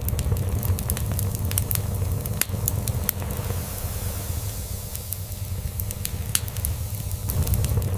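Log fire crackling, with frequent sharp pops and snaps over a steady hiss, layered with a cat's low, steady purring.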